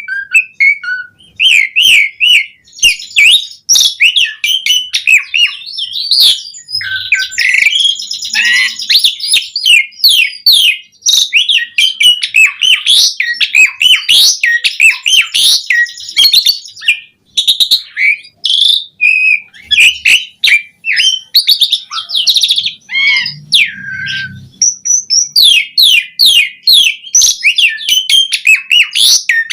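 Asian pied starling (jalak suren) singing in full voice: a long, rapid run of varied whistles, glides and harsh chattering notes, packed with varied song phrases.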